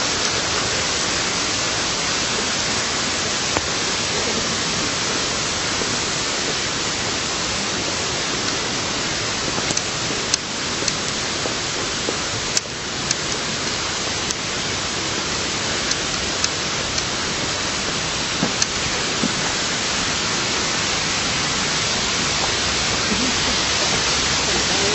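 Steady rush of flowing water, with a few faint clicks in the middle.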